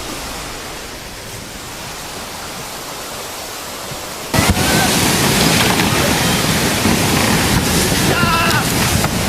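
Tsunami floodwater rushing in a steady roar of noise that jumps abruptly louder about four and a half seconds in, with faint distant voices shouting over it in the second half.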